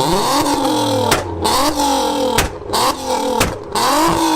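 Car engine revved hard about once a second, its pitch climbing each time, with sharp exhaust pops and bangs cracking out as each rev falls away.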